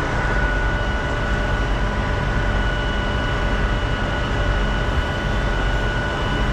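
Grove GMK 6450 all-terrain crane running steadily, a heavy engine rumble with a constant high-pitched whine over it.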